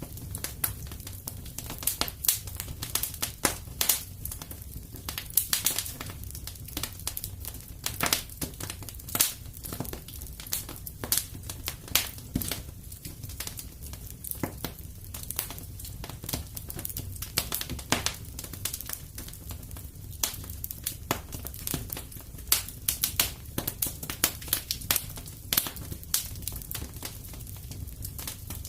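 Wood fire crackling steadily in a fireplace: a continuous low rumble of flame with frequent irregular snaps and pops.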